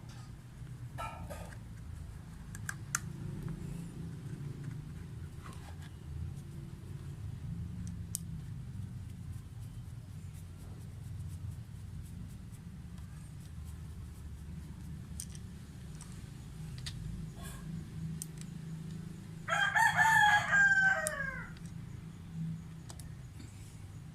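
A rooster crows once, about twenty seconds in: a call of about two seconds that falls in pitch at its end. Under it runs a steady low hum, with scattered light clicks.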